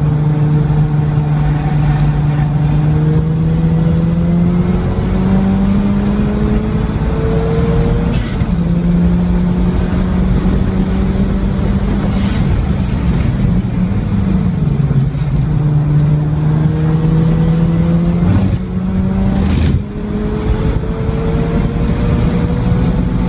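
Mazda RX-7's rotary engine at full throttle on track, heard from inside the car. Its note climbs in pitch in long pulls, drops suddenly at gear changes, and falls away near the end as the car slows for a corner, over a steady rush of wind and tyre noise.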